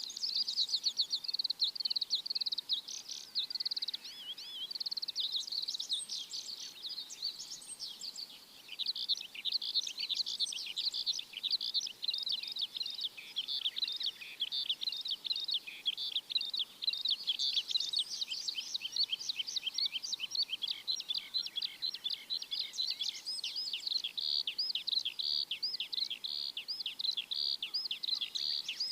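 A dense chorus of many small birds chirping and twittering at once, with short, quick notes overlapping without a break.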